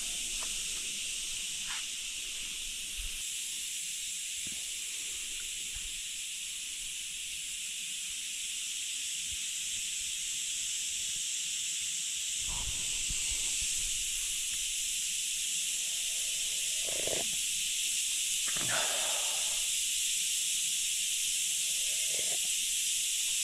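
A steady, high-pitched hiss that shifts slightly in tone about three seconds in. A few faint short knocks and rustles come in the second half.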